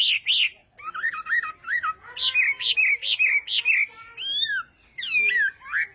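Chinese hwamei singing: a varied song of quick whistled notes repeated in series of four to six, switching to a new phrase every second or so, with sliding notes near the end.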